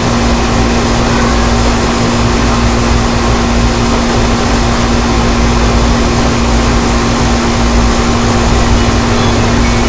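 A steady machine hum at one constant pitch over a loud, even rushing noise.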